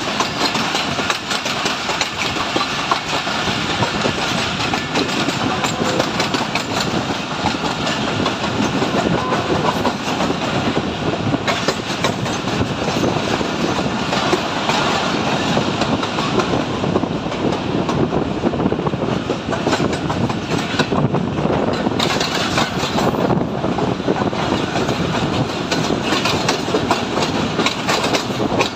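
Pakistan Railways railcar running along the track, heard from on board: a steady rush of running noise with the wheels clicking and clattering over the rails.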